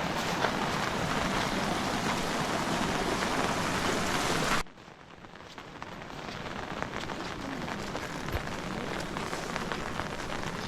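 Steady heavy rain. About four and a half seconds in it cuts abruptly to quieter rain that slowly grows louder.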